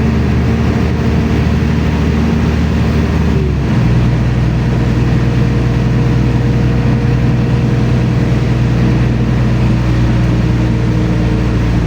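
LiAZ-5292 city bus under way, heard from inside the passenger cabin: the engine and drivetrain run with a steady hum and whining tones. About four seconds in, the engine note steps to a new pitch and then holds steady.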